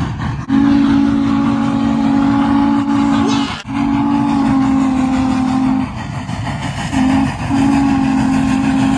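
Norfolk & Western 611 steam locomotive's chime whistle blowing the grade-crossing signal: long, long, short, long. A steady rumble from the moving train runs underneath.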